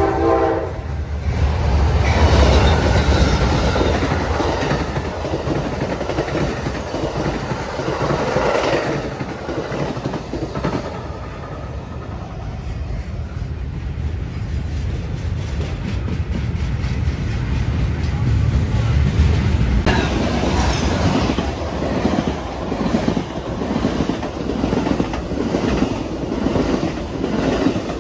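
Train passing close by: a steady heavy rumble of locomotive and cars on the rails, with the tail end of a horn blast cutting off right at the start. From about twenty seconds in there is a rhythmic clickety-clack of wheels over rail joints.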